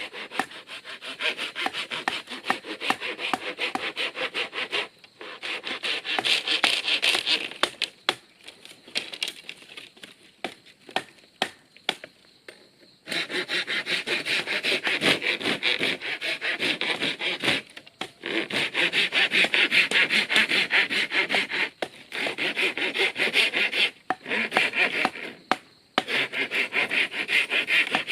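Hand saw cutting through wood in runs of quick, even strokes, stopping for a few seconds near the middle, then starting again louder.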